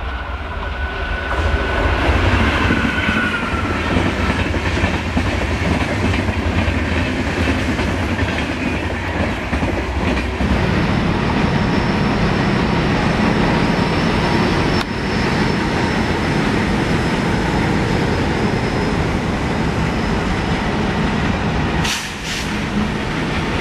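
A train running past at speed: the steady rumble and rattle of wheels on the rails, with a clickety-clack over the joints. A thin high tone runs through the middle stretch.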